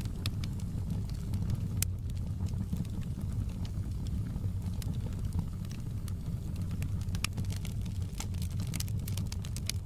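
Wood fire burning in a fireplace: a steady low rumble of flames with irregular sharp crackles and pops, coming thicker near the end.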